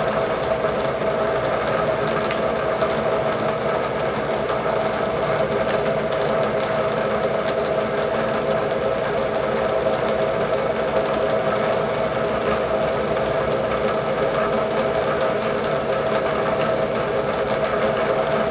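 Machine tool running steadily with a steady pitched hum while a short two-flute drill cuts into a metal shaft coupler, with faint scattered ticks from the cut.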